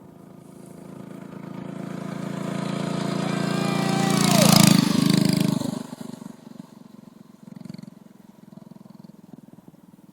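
Homemade minibike on a bicycle frame with a 5.5-horsepower engine riding by: the engine grows louder as it approaches, passes close about four and a half seconds in with a sudden drop in pitch, then fades away.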